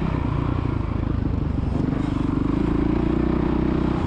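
Dirt bike engine running under throttle on a motocross track. Its pitch dips early, climbs around two seconds in, and eases off near the end.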